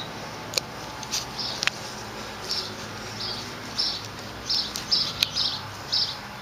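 A small bird chirping in short, high notes, about two to three a second, starting a couple of seconds in; a few sharp clicks come before it.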